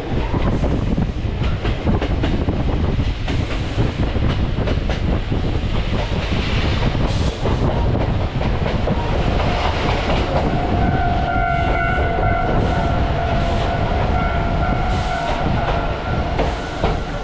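Choshi Electric Railway train running, heard through an open window: a steady rumble with the clack of wheels over rail joints. From about ten seconds in, a high steady squeal from the wheels joins it.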